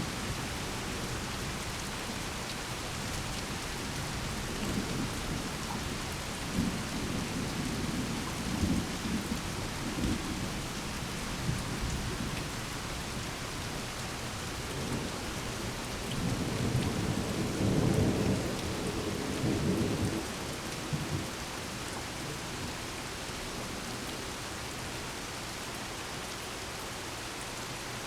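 Steady rain falling during a thunderstorm, with thunder rumbling. There are a few low rolls early on and a louder, longer roll of about five seconds midway through.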